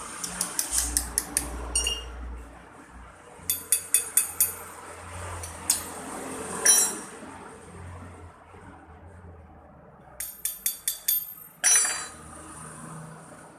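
Sharp metallic clicks and taps from hand tools during work on a car engine, coming in quick runs of about six to eight at the start, around four seconds in and again near ten seconds, with a few single louder clinks between.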